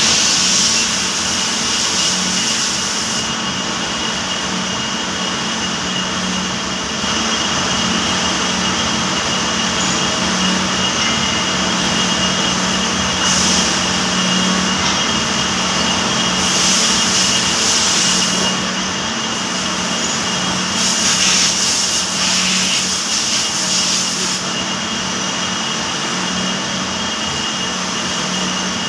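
CNC gear shaper machine running with a steady hum and a high whine, and a hiss that comes and goes several times.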